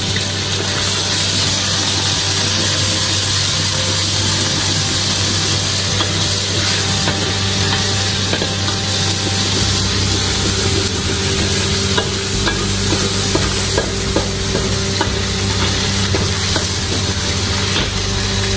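Ginger and garlic sizzling in hot oil in a wok, stirred and scraped with a ladle and spatula, with scattered clinks of the utensils on the pan. A steady low hum runs underneath.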